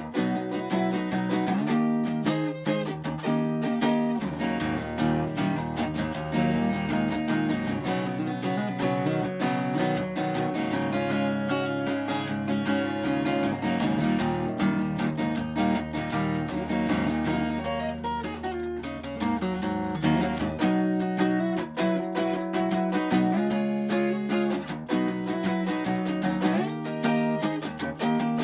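Instrumental music led by a strummed acoustic guitar, with low held bass notes through the middle stretch.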